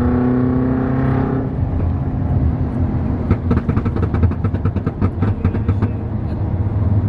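Car engine revving with a slowly rising note, then running with a steady low rumble. Midway a rapid run of sharp pops lasts about two and a half seconds.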